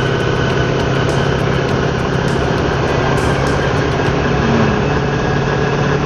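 Motorcycle engine breathing through an aftermarket R25 muffler, running at a steady, even pace with no change in revs.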